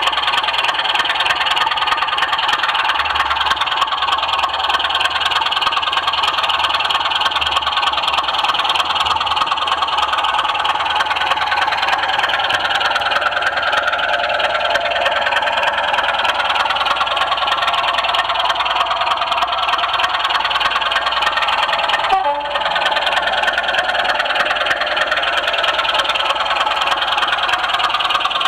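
Model train running on a helix, heard close up: a steady, loud whir and rattle of the locomotive's motor and wheels on the rails, with a momentary break about three-quarters of the way through.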